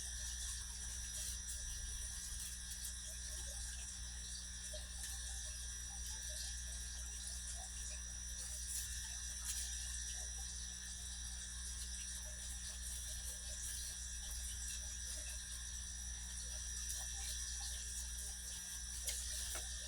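Steady low electrical hum with a constant high whine, over scattered faint clicks and rustles of handling.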